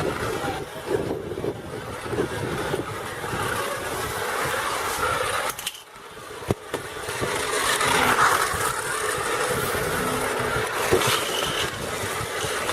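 Battery-operated toy trains running on a toy track, a continuous mechanical running noise that briefly drops away about six seconds in.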